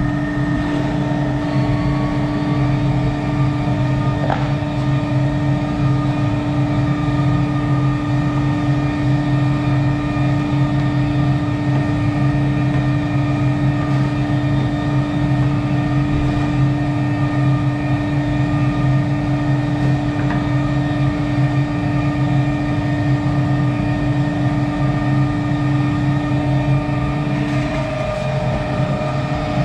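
Steady drone of a large fan or motor running continuously, with a strong even hum; its pitch shifts slightly near the end.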